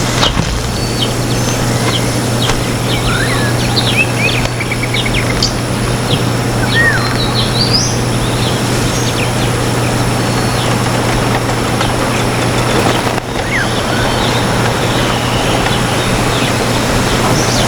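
Small birds chirping with short, scattered calls over a steady rushing background noise and a constant low hum.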